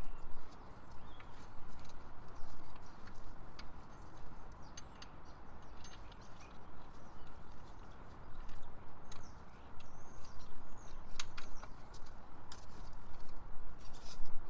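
Scattered light clicks and taps of hand tools on metal while the belt tensioner bolt is fitted and tightened, with birds chirping in the background from about six seconds in.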